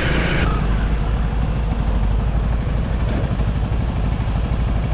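Honda CRF300L single-cylinder dirt bike engine running steadily at low revs while riding, heard as a dense low rumble. A hiss over it stops about half a second in.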